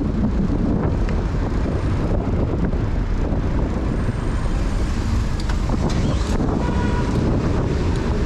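Wind rushing over the microphone of a camera riding along on a bicycle, over steady city street traffic.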